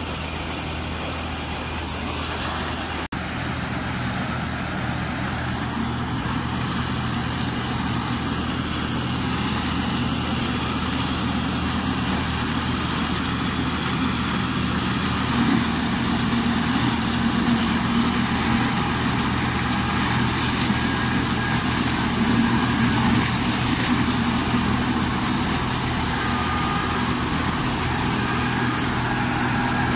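New Holland 8080 combine harvester running steadily with a constant engine and machinery hum, growing slightly louder over the stretch. A brief dropout about three seconds in.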